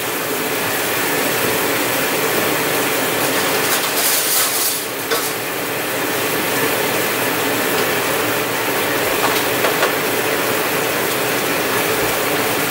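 King crab legs sizzling in hot garlic butter in a frying pan: a steady, dense crackling with faint scattered pops.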